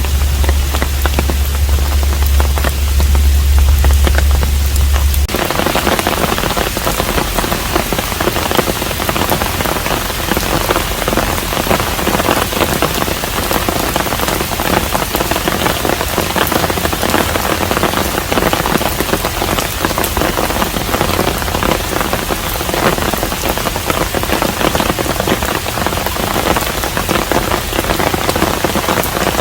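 Steady rain falling at a hanok, an even continuous hiss of drops. For about the first five seconds a low steady hum sits under it, then it cuts off suddenly and the rain turns fuller and brighter.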